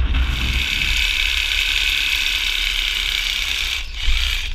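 Mobile crane running steadily while it holds the floodlight on its winch: a steady mechanical whirring hiss over a low rumble, with a short bump near the end.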